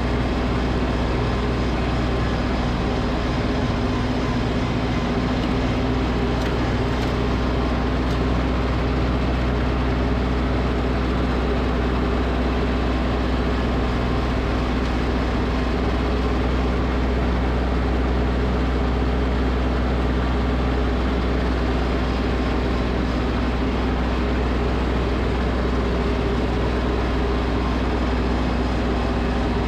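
Snowblower engine running steadily at constant speed.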